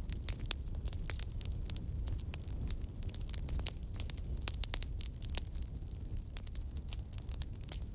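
Wood fire crackling: many irregular, sharp pops and snaps over a steady low rumble of the burning fire.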